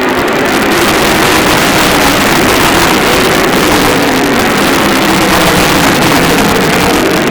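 Several sprint car engines running hard around the track together, a loud, dense, unbroken engine noise whose pitch rises and falls as the cars go by.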